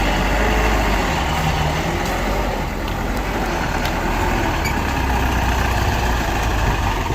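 Heavy diesel engine of earthmoving machinery running steadily, a deep continuous rumble.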